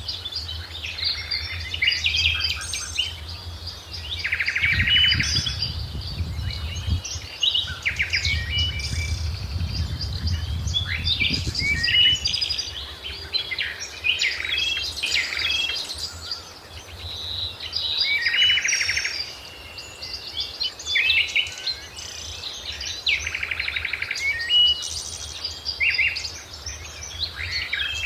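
Several songbirds chirping and singing at once, a dense chorus of short calls and trills. A low rumble runs underneath for several seconds early on.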